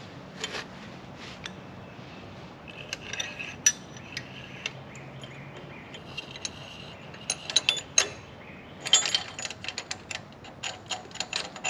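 Hand ratchet clicking in runs, with metal tools and small engine parts clinking and tapping, as bolts on a small mower engine are worked during reassembly.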